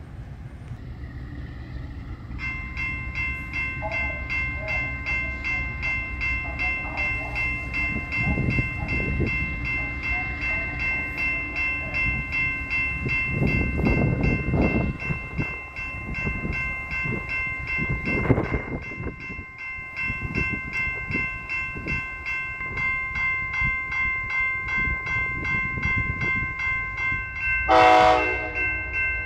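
Amtrak Auto Train with GE P40DC diesel locomotives passing with a low rumble. A bell starts ringing steadily a couple of seconds in, and a short, loud horn blast comes near the end.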